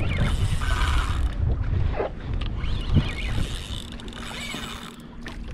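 Fishing reel working under a hooked fish, its mechanism clicking and whirring, over low wind noise.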